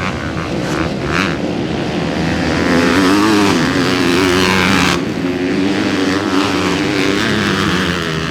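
Motocross bike engines running hard, their pitch rising and falling as the throttle is worked. The sound changes abruptly about five seconds in.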